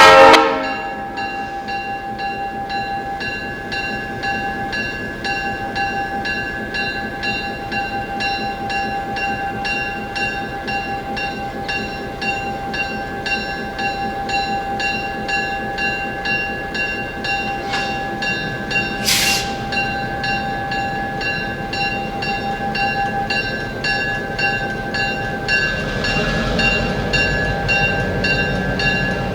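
Passenger train running along the track, heard from aboard: a steady drone with a few held tones over a fine, even clatter. A brief high hiss comes about two-thirds of the way through, and a low rumble grows louder near the end.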